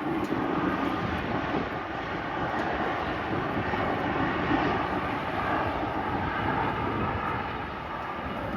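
Jet airliner's engines running loud and steady, a broad rush of noise with a faint whine above it.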